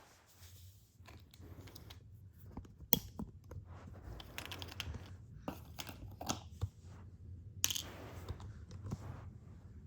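Hands handling and moving plastic toy pieces: scattered light clicks and taps with bits of rustling, a sharper click about three seconds in and another late on, over a low steady hum.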